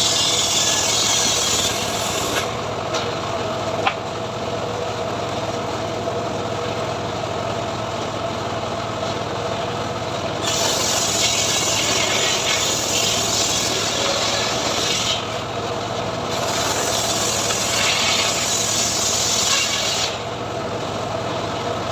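Homemade engine-driven bandsaw mill ('gergaji srekel') cutting mahogany. A bright rasping hiss from the blade in the wood comes and goes in long stretches over a steady machine drone.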